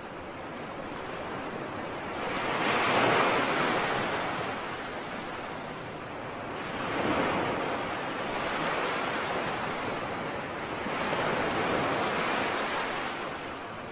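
Sea waves surging in, three swells of surf a few seconds apart, the loudest about three seconds in.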